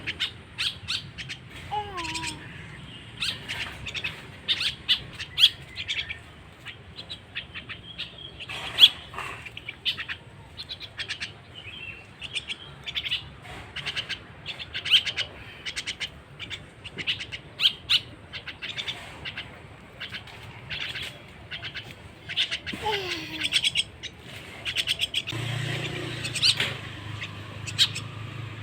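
A young starling (jalak) chick calling, with a long run of rapid, short, harsh chirps. A faint low hum comes in near the end.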